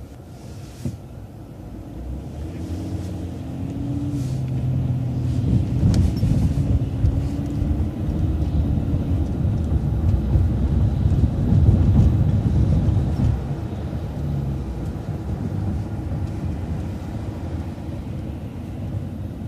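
City transit bus engine and drivetrain running as the bus drives on, a low rumble that builds from about two seconds in as the engine works harder, peaks around the middle, then settles to a steadier cruise.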